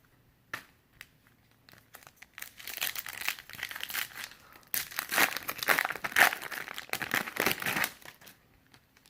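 Plastic wrapper of a trading-card pack being torn open and crinkled by hand, after a few light clicks of the cards being handled. The crackling runs for about five seconds with a short pause in the middle.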